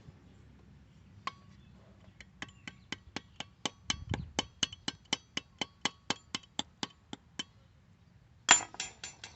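A quick, even run of sharp metallic clicks with a slight ring, about four or five a second for around five seconds, then a single louder metal clank near the end: a hand tool working on metal while a welding ground spot is being prepared.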